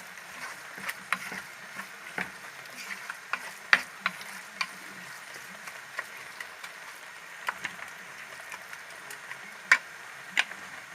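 Garlic and chopped parsley and coriander frying in oil in a pan with a steady sizzle, while a spoon stirs and taps irregularly against the pan; the sharpest knocks come about four seconds in and near the end.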